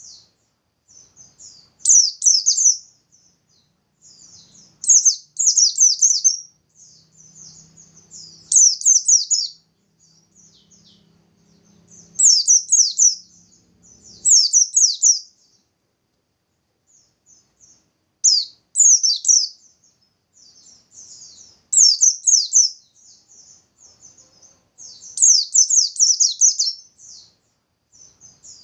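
White-eye (pleci) singing vigorously: repeated high, rapid bursts of song, each about a second long, with soft twittering between them.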